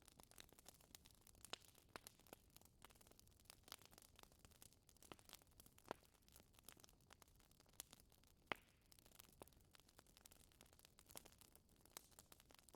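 Wood fire in a fireplace crackling softly, with scattered small pops at irregular intervals and a sharper pop about two-thirds of the way through.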